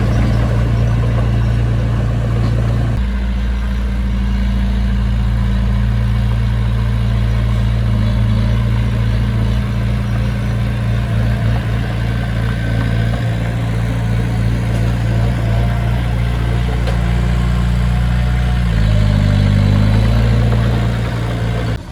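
Heavy diesel engine of construction machinery running steadily at a low pitch. It rises briefly in pitch and loudness near the end.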